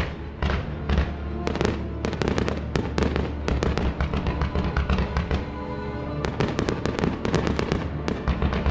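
Fireworks going off in rapid, continuous succession, dense crackling bangs many per second, over music played over the show's loudspeakers.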